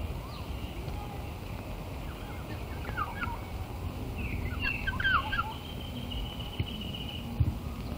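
Birds calling over a low outdoor rumble: a jumble of short chirps about three seconds in and again around five seconds, then a held high trill for about two seconds. Two sharp clicks come near the end.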